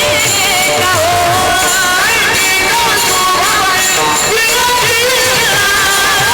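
A woman singing a Marathi devotional panchapadi in a sliding, ornamented melodic line, with instrumental accompaniment.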